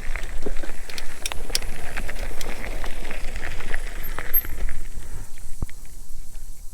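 Wind rumbling on an outdoor microphone, with scattered crackles and clicks throughout; it eases a little near the end.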